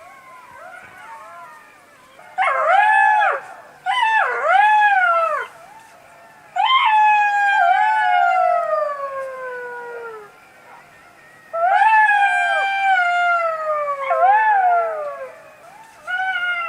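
Jackals howling: several overlapping wailing calls, each rising and then falling in pitch, with fainter calls in between. One long howl about seven seconds in slides steadily down in pitch.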